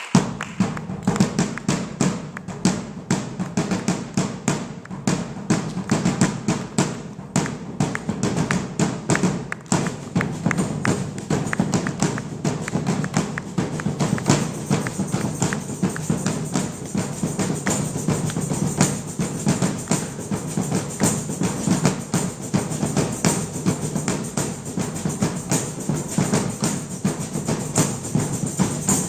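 Drum ensemble playing a fast, dense rhythm on drums and percussion.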